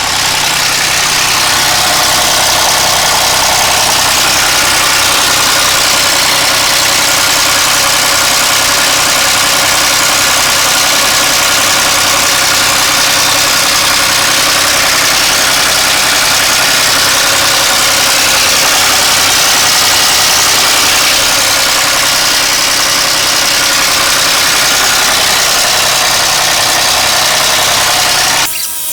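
Audi A8 D3 engine idling steadily with a loud, dense clatter: the timing-chain knock that a new chain tensioner has not cured. The sound drops away sharply near the end.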